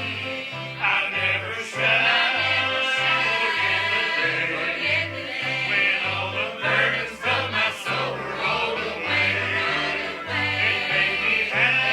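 Church choir singing a gospel song over instrumental accompaniment. A bass line steps back and forth between two notes on a steady beat.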